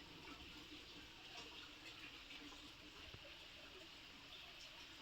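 Near silence: faint background hiss, with one faint tick about three seconds in.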